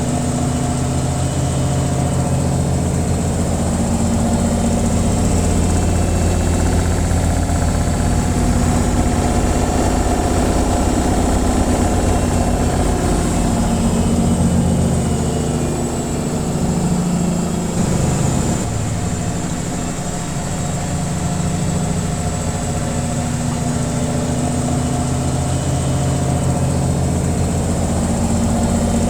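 Washing machine in its spin cycle, the drum spinning with a steady hum. The hum dips briefly about two-thirds of the way through.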